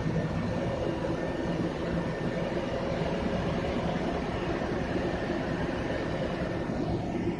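Floating crane's heavy diesel machinery running with a steady low drone while it holds the turbine runner.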